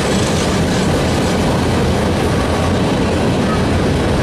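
Freight train's open-top cars rolling past close by: a loud, steady rumble of steel wheels on the rails.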